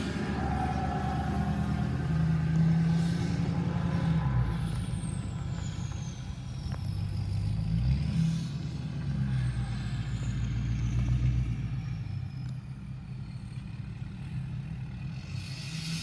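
Truck engine running, its low note rising and falling several times as it revs up and eases off, with a faint high whistle gliding down now and then.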